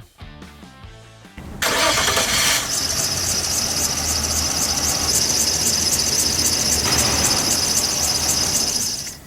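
End of intro music, then about one and a half seconds in a car engine starts up and runs, with a strong high-pitched sound over it that pulses rapidly. It cuts off just before the end.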